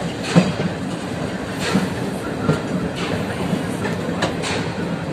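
Passenger train coaches rolling along the track: a steady rumble with the wheels clattering in a few sharp, irregular clicks over rail joints and points.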